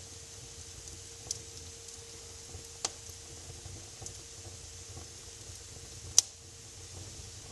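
Wood fire burning in a fireplace: a steady crackling hiss with a few sharp pops, the loudest about six seconds in. A faint steady hum runs underneath.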